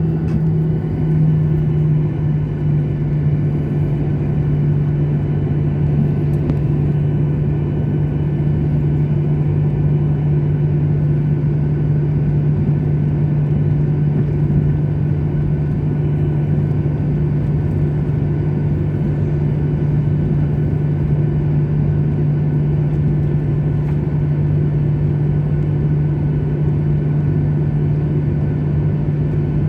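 Airliner cabin noise: a steady jet-engine and airflow drone with a strong low hum, which drops slightly in pitch about two seconds in.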